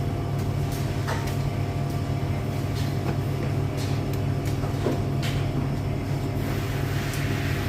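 Steady low hum of commercial kitchen machinery, with a few short clicks and clinks scattered through it.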